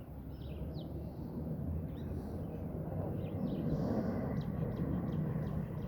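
Small birds chirping, many short high chirps scattered throughout, over a low rumbling background that swells from about halfway through.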